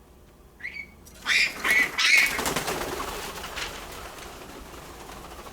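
Pet parrot squawking: a short chirp, then a run of loud, harsh squawks between about one and two seconds in, followed by a fading noisy rustle.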